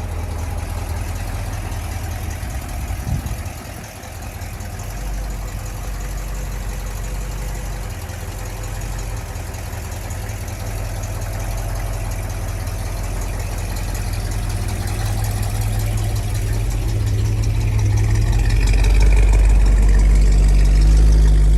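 A car engine idling with a steady low rumble, growing louder over the last several seconds.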